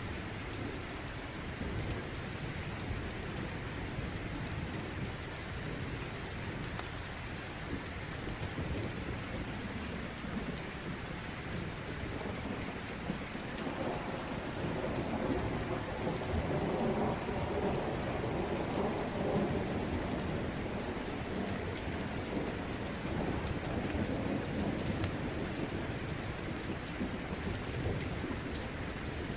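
Steady rain pattering, with a long roll of thunder that swells about halfway through and slowly fades.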